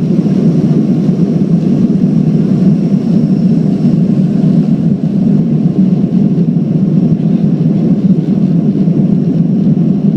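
Boeing 737-500 jet airliner's CFM56-3 engines running at take-off power, a loud steady rumble with a faint thin high whine above it.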